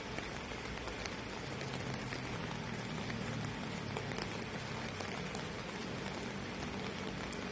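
Steady rain falling, with a low rumble underneath that swells a little in the middle.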